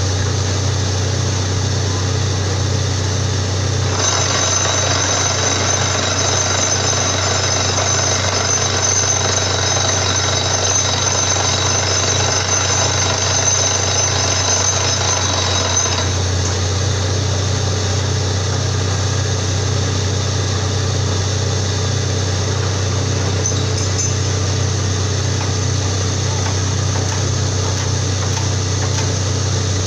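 Borewell drilling rig running steadily with a loud low engine hum and the hammering rattle of the drilling. A harsher, higher layer joins about four seconds in and drops away about halfway through.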